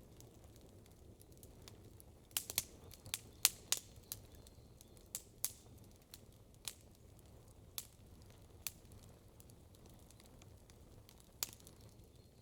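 Campfire crackling, with sharp irregular pops from the burning wood: a quick run of pops about two to four seconds in, then single pops a second or more apart.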